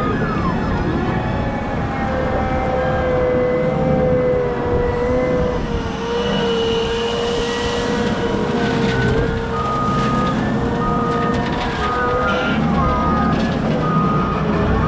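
Cat 972M XE wheel loader working with its engine running and a steady, slightly wavering whine from the drivetrain and hydraulics. In the second half a reversing alarm beeps about once a second.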